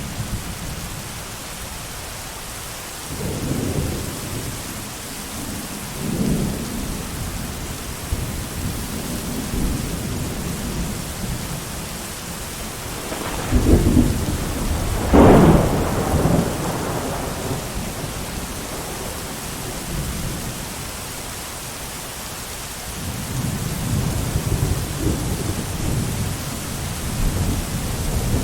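Thunderstorm: steady heavy rain with rolling thunder. Low rumbles come a few seconds in, two louder thunderclaps about halfway through, the second the loudest, and the rumbling builds again near the end.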